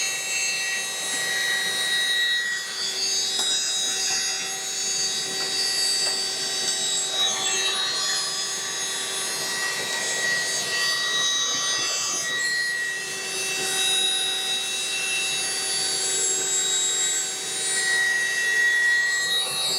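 Small handheld suction vacuum running steadily with a high whine, sucking built-up dust out of a refrigerator's condenser coil vent.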